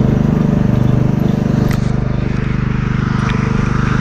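Lawnmower's small engine running steadily while it tows a wagon, with a couple of faint knocks.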